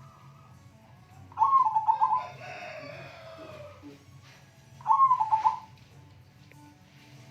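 Zebra dove (perkutut) cooing: two stuttering, bubbling song phrases about three and a half seconds apart, used as a lure recording to set other perkutut singing.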